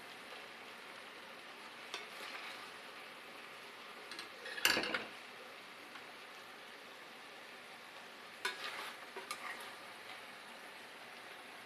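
Food sizzling steadily in a pan on the stove while a utensil stirs it, with scrapes and knocks against the pan. These come briefly about two seconds in, loudest around five seconds in, and again around nine seconds in.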